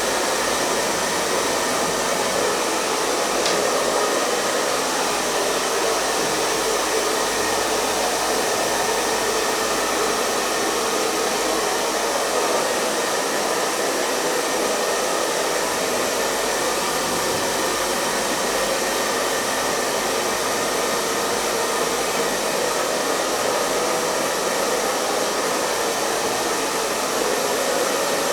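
Hair dryer running continuously: a steady, even rush of blown air and motor noise with no change in speed.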